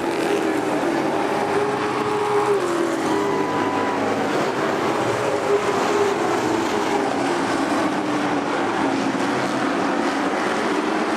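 Several racing truck engines running hard around the track, their pitches rising and falling as they rev, shift and pass.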